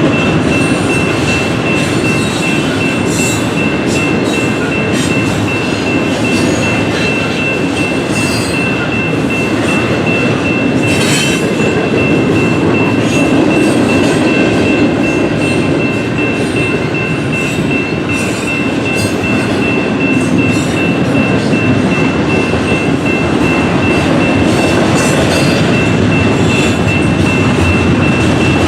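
A train rolling past at close range: a steady, loud rumble of wheels on rail with scattered clicks and a thin, high whine held over it.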